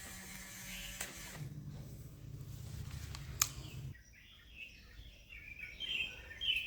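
A small electric motor hums steadily, with a sharp click about three and a half seconds in; the hum cuts off soon after, and irregular high chirping follows near the end.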